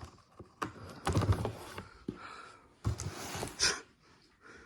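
Cardboard ceiling-fan box being handled and opened: scraping and rustling, with knocks and clicks.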